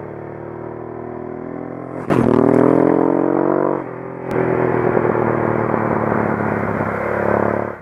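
Honda XL600V Transalp motorcycle's V-twin engine pulling along under throttle. About two seconds in it gets much louder as the revs rise, eases briefly near four seconds in, then pulls on steadily.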